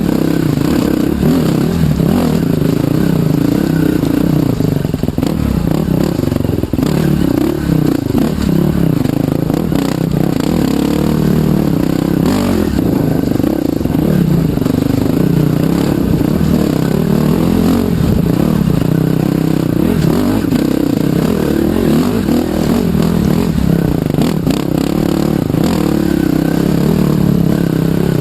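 A trail bike's engine running on a ride, its pitch wavering up and down with the throttle.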